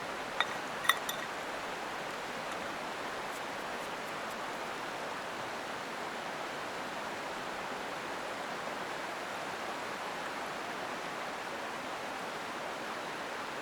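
Mountain stream flowing steadily, with a few sharp clicks in the first second.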